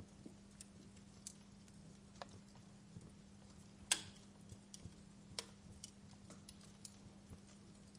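Faint crackling fire, wood giving off sparse irregular pops, with one sharp loud crack about four seconds in. A steady low hum runs underneath.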